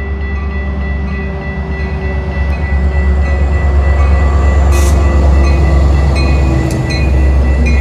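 Metra commuter train arriving at the platform: a loud, heavy rumble that swells about two and a half seconds in and stays loud, with a steady high tone throughout and a brief sharp hiss about five seconds in.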